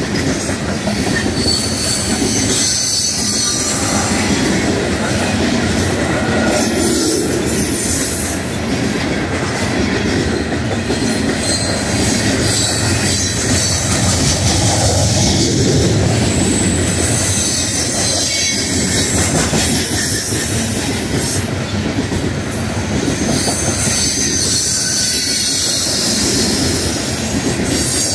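Coal train's freight cars rolling past: a steady, loud rumble and rattle of steel wheels on rail, with high-pitched wheel squeal that comes and goes, strongest near the start, around the middle and near the end.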